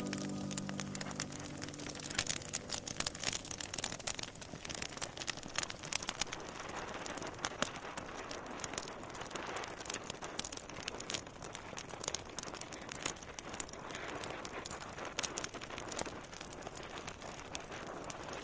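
Fire crackling in a fireplace, a steady run of irregular sharp pops and snaps, while a last held music tone fades out in the first second or two.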